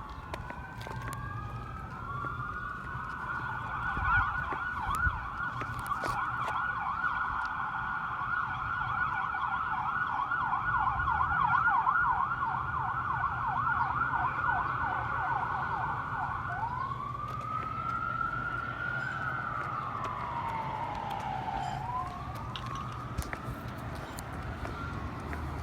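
Emergency vehicle siren running through its cycle: a slow wail, then a rapid yelp for over ten seconds, then slow rising and falling wails again. A low vehicle rumble runs underneath.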